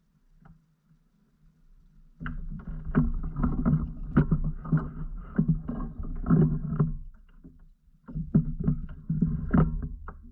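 A kayak moving through the water, with a steady run of knocks and splashes about two to three a second over a low rumble. The knocks come in two runs, broken by a short pause about seven seconds in.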